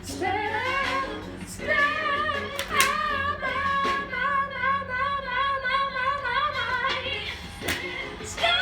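A woman singing without words over music: a rising slide, then one long note held with vibrato for about five seconds, and a short phrase near the end.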